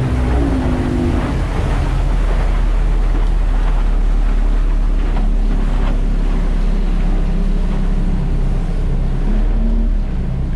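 Mercury 225 Optimax two-stroke V6 outboard running steadily as the boat travels at speed, its note dropping slightly right at the start, under a steady rush of water along the hull and wind on the microphone.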